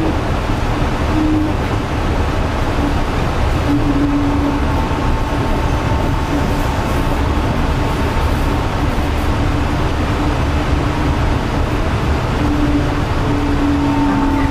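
Yurikamome rubber-tyred automated guideway train running, a steady rumble with motor tones that come and go.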